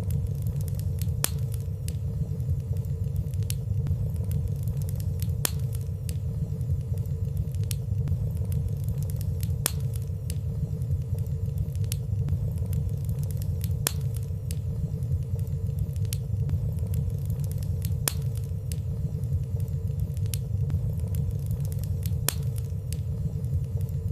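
Fire burning in a fireplace: a steady low rumble of flames with small, scattered crackles and ticks, about one or two a second, and no large pops.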